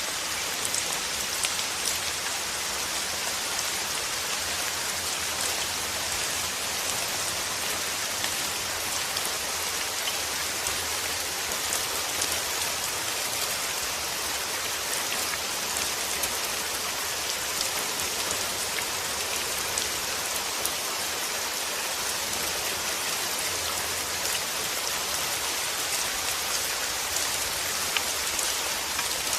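Continuous, even hiss of a white-noise track that sounds like steady rain, with faint scattered ticks like drops.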